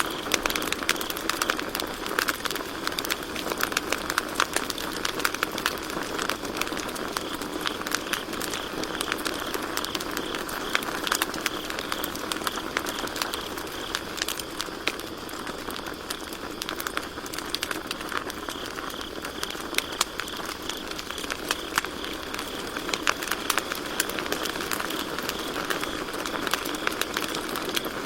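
Campfire crackling with frequent irregular pops and snaps, over a steady chorus of crickets chirping.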